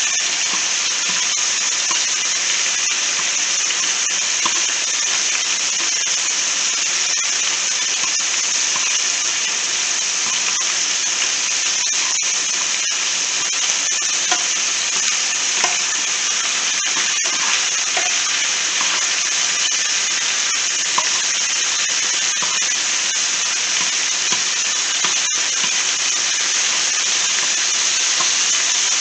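Chicken pieces sizzling steadily as they fry in coconut oil in a skillet, with a few light clicks of metal tongs turning them.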